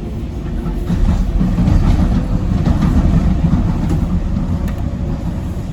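Docklands Light Railway train running along the track, heard from inside the front car: a steady low rumble of wheels on rail with faint clicks, growing louder about a second in and easing off near the end.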